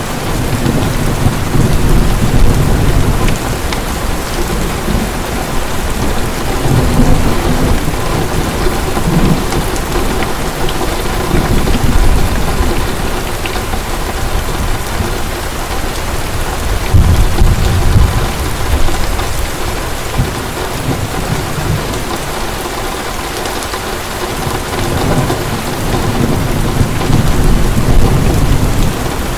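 Heavy rain pouring steadily, with low rolls of thunder rumbling and swelling every few seconds.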